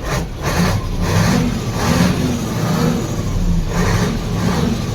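Mercedes-Benz truck diesel engine running, having started on a newly fitted starter motor that cures the earlier clicking no-start. Its sound swells and fades in even pulses about every two-thirds of a second.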